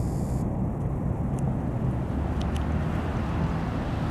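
Enshu Railway electric train running along an elevated concrete viaduct: a steady low rumble, with a few faint ticks around the middle.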